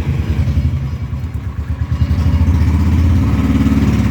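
Single-cylinder motorcycle engine running with a steady, rapid firing pulse. About halfway through it grows louder and its note rises slightly, as the throttle is opened a little.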